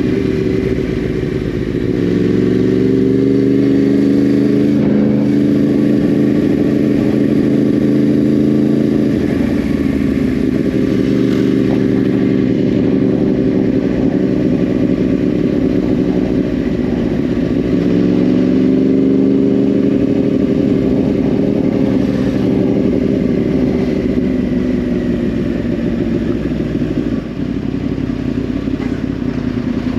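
2010 Yamaha R1's crossplane inline-four with a Yoshimura exhaust, running under way. Its note rises about two seconds in and again about eighteen seconds in, easing off gradually after each rise.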